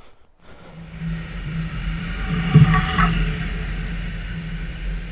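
Honda CRF300L Rally's single-cylinder engine running, coming in about half a second in and growing louder towards the middle, with a brief knock about two and a half seconds in.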